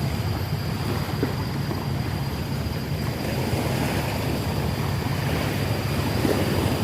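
Wind buffeting the microphone: a steady low rumble with no clear events, and a faint steady high tone above it.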